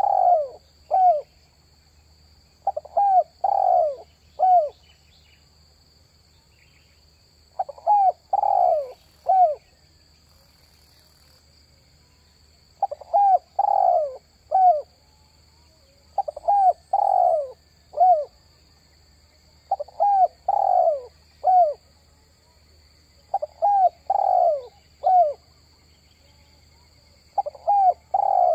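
Spotted dove (tekukur) cooing: a short phrase of three or four notes, repeated every three to four seconds. A faint, steady, high-pitched whine runs underneath.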